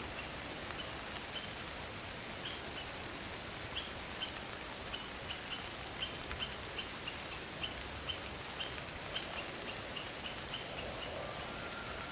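Night forest ambience: a steady hiss of rain and wind with short, high chirps repeating about twice a second, which stop near the end.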